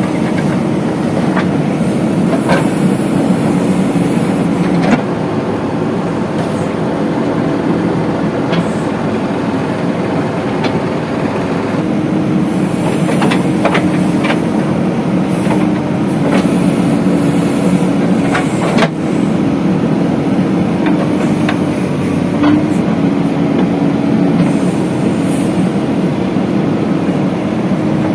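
Diesel engine of a JCB 3DX backhoe loader running steadily under working load while loading mud, its pitch shifting slightly. Scattered sharp clanks and knocks are heard, the most prominent a few seconds in and a little past halfway.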